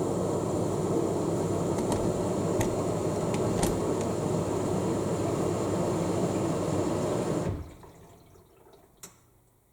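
AEG 7000 Series washing machine taking in water through its inlet valve at the start of the main wash, a steady rush of water. About three-quarters of the way through the fill stops and the rush dies away, followed by a single click.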